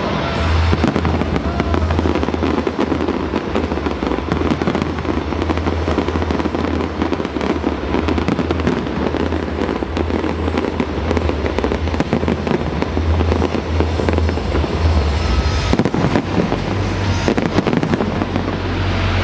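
Large fireworks display with shells bursting in a dense, continuous barrage of bangs and crackling.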